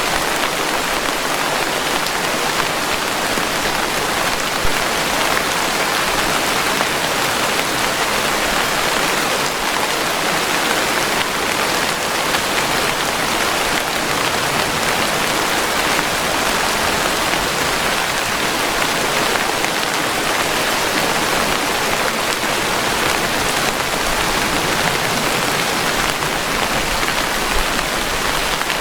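Steady, dense rainfall with no thunder.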